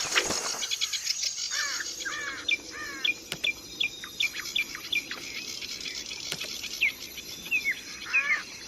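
Pleci (white-eye) singing a harsh, rapid lure song: a series of short, sharp falling notes, about two a second, pausing briefly past the middle before starting again.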